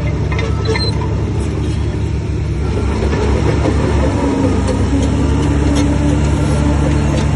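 Heavy earthmoving machine's diesel engine running steadily, slightly louder from about three seconds in, with a few faint light ticks.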